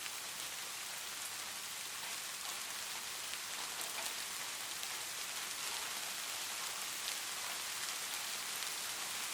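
Light rain falling steadily, a soft even hiss with fine pattering drops.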